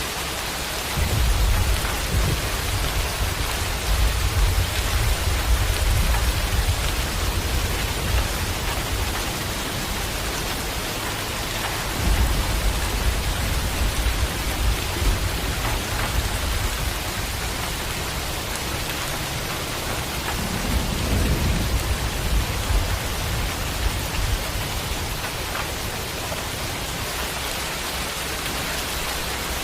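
Steady rain with rolling thunder: three long, low rumbles, about a second in, around midway, and again about two-thirds of the way through.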